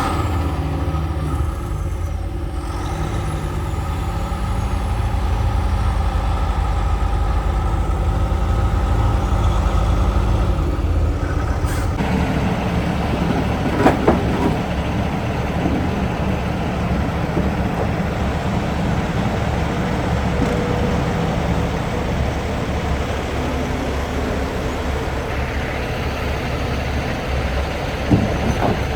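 Logging truck's diesel engine running steadily. The engine note changes about twelve seconds in, with a sharp clack a couple of seconds later and another near the end.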